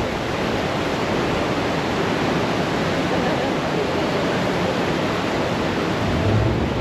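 Steady rush of water from the Horizontal Falls tidal rapids as an outgoing tide pours through a narrow gap in the cliffs.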